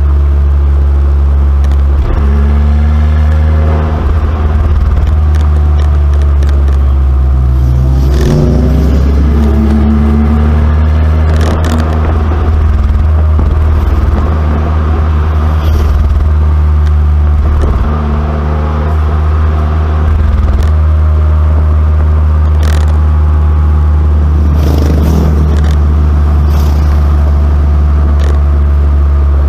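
2019 Abarth 595C Competizione's turbocharged 1.4-litre four-cylinder through its Record Monza exhaust, driving under a heavy low drone, its note rising and falling several times as it accelerates and eases off. A few sharp cracks come through along the way.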